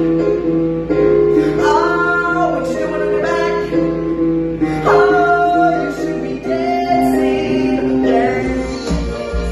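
Singing in sustained, gliding notes over backing music with guitar; a low pulsing bass beat comes in near the end.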